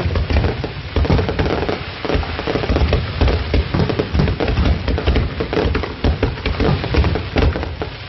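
Fireworks display: a dense, continuous run of shell bursts, with deep booms under crackling stars.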